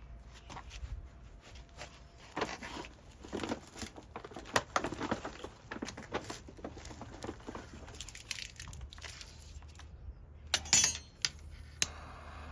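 Irregular rustling and crinkling handling noises, with a few sharp clicks near the end.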